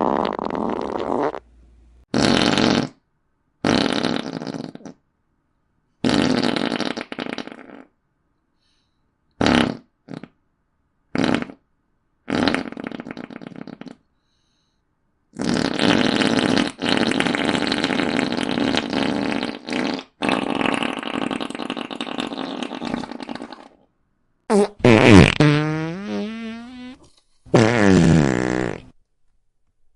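A run of comedic fart sound effects, one after another with short silent gaps: several short blasts, a long drawn-out one lasting about eight seconds in the middle, and near the end squeaky ones whose pitch slides up and down.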